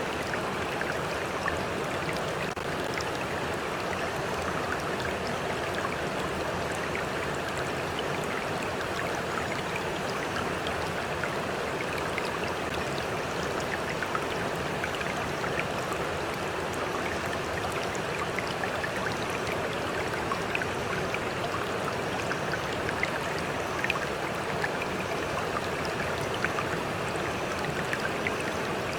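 A stream flowing steadily, an even rush of water dotted with many small splashes and trickles.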